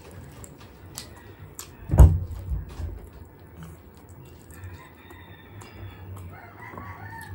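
Close-miked eating of roast chicken (lechon manok): wet mouth clicks and crunches while she chews, with one loud low thump about two seconds in.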